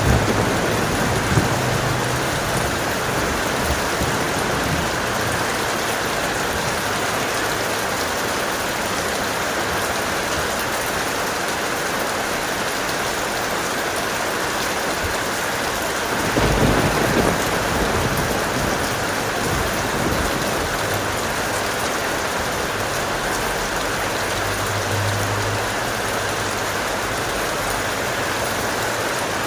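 Heavy rain falling steadily, with low rolls of thunder: a faint one near the start, a louder one about halfway through, and another quiet rumble near the end.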